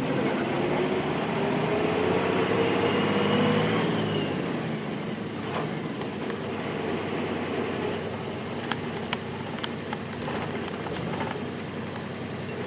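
Nissan Diesel KC-RM211 Space Runner RM bus's FE6 straight-six diesel engine pulling, rising in pitch for the first few seconds as it accelerates, then running lower and steadier. Several sharp clicks come about half a second apart in the second half.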